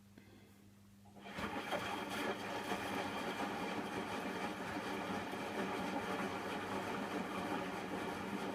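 Hotpoint washing machine's drum starting to spin about a second in, then running on steadily with a dense mechanical whir and rumble, the spin near the end of a cotton wash cycle.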